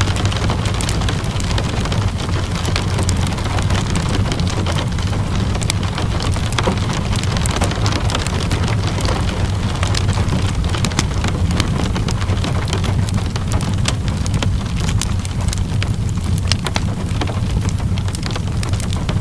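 Steady rain falling, over a continuous low rumble, with many small sharp pops and crackles from a wood fire scattered throughout.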